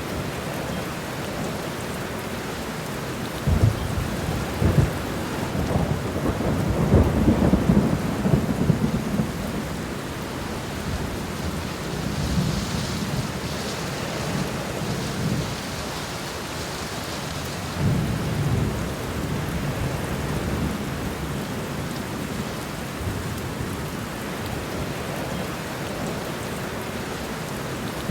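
Steady rain falling, with low rolls of thunder rumbling through. The thunder is loudest a few seconds in and again about two-thirds of the way through.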